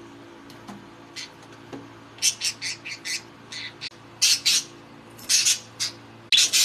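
Pet budgerigars giving short, harsh squawks in quick clusters, beginning about two seconds in and coming in several bunches.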